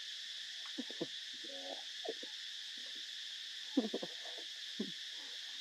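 Monkeys giving short, falling squeaks and coos, several in quick succession, over a steady high hiss.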